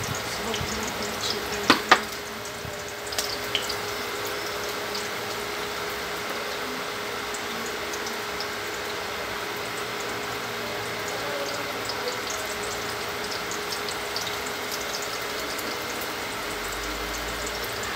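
Garlic, onion and ginger sizzling steadily in hot oil in a stainless steel pot, with a couple of sharp knocks about two seconds in.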